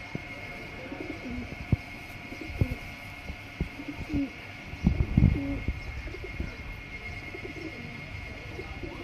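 Domestic pigeons giving short, low coos several times, with scattered sharp taps and a louder low thump about five seconds in. A faint steady high whine sits underneath.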